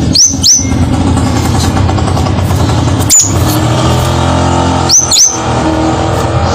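Crimson sunbird calling: short, sharp upswept chirps, two near the start, one about three seconds in and two more a little after five seconds. Under them runs a steady low drone.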